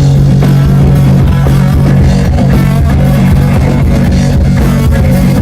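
Live band playing an instrumental passage of a country-rock song: guitar over bass and drums, loud and steady.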